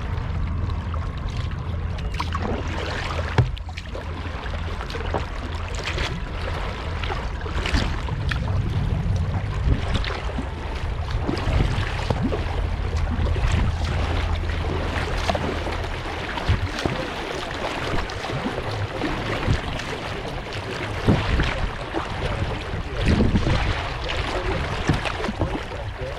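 Kayak paddle strokes dipping and splashing in river water, with drips between strokes. A low rumble lies underneath and stops about two-thirds of the way through.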